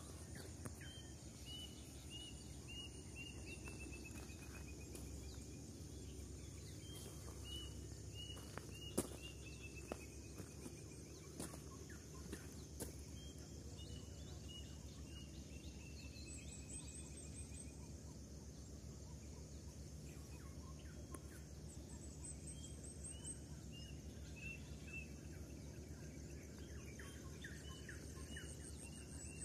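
Faint forest-morning birdsong: a bird repeats runs of short whistled notes that step down in pitch, several times over, with a few higher trills from other birds over a steady high hiss.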